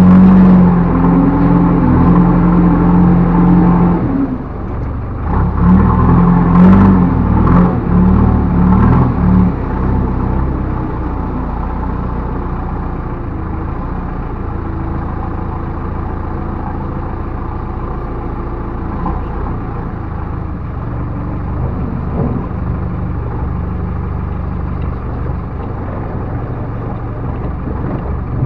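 Backhoe loader's diesel engine running under load, loud for the first ten seconds or so with a short dip about four seconds in and a few clanks around seven to nine seconds in, then settling to steadier, quieter running.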